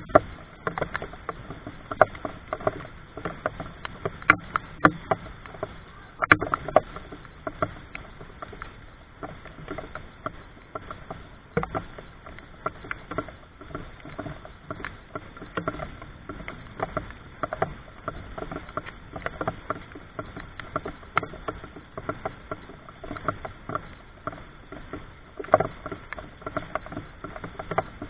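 Rain falling, with heavy drops striking in irregular sharp taps several times a second.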